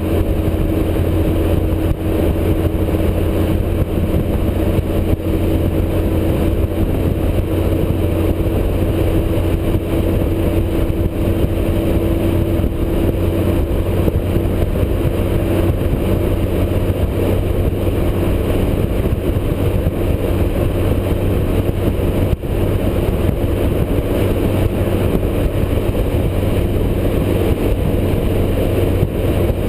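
Motorcycle engine running steadily at cruising speed on the highway, under a constant rush of wind and road noise.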